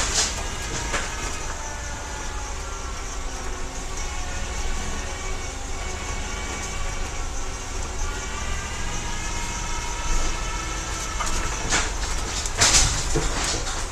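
A 2002 GMC Blue Bird Handybus under way, heard from inside: its 8.1-litre gasoline GM engine runs under a low rumble of road noise, with a whine that slowly rises and falls in pitch. Body rattles knock now and then, loudest at the start and near the end.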